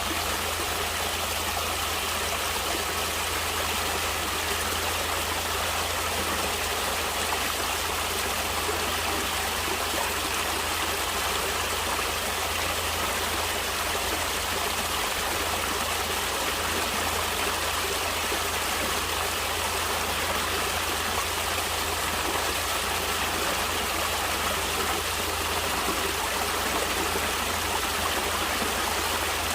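A stream of water flowing and splashing over rocks in a steady, unbroken rush.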